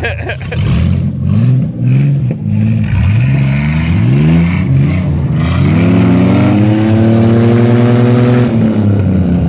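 Vehicle engine revved hard: several short rises in pitch over the first few seconds, then a long climb to high revs that is held before dropping off near the end.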